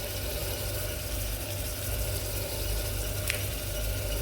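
Steady low hum with an even hiss, and one short sharp click about three seconds in.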